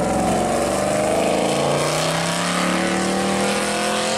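Chevy II Nova's engine accelerating away. Its note falls slightly as it passes, then climbs steadily as it pulls away.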